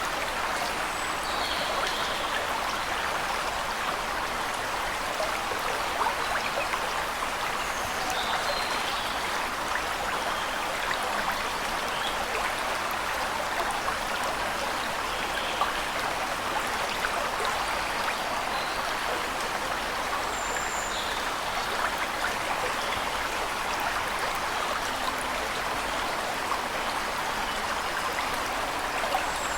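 Waterfall water rushing steadily, with a few faint, short bird chirps now and then, including one near the end.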